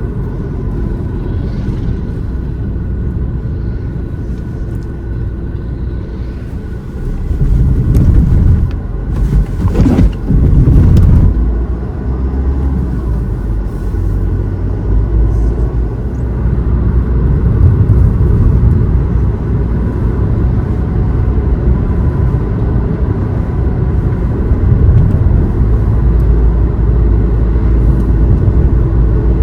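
A road vehicle driving, with a steady low rumble of engine and road noise. It grows louder and rougher for a few seconds about a quarter of the way in.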